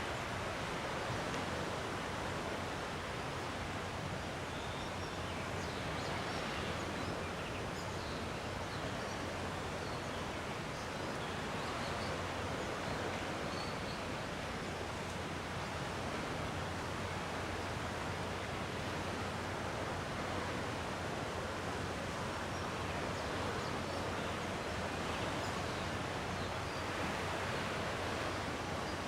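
Calm sea waves washing gently on the shore, a steady wash that swells slightly now and then.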